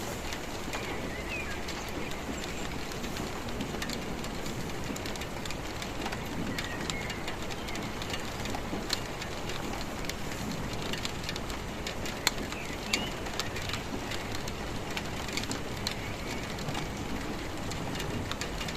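Steady rain falling, with individual drops tapping close by and a few louder single drips about 9, 12 and 13 seconds in.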